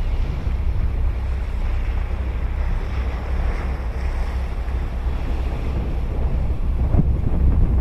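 Ocean surf breaking and washing up the beach, with wind rumbling on the microphone. The wash swells about three to four seconds in.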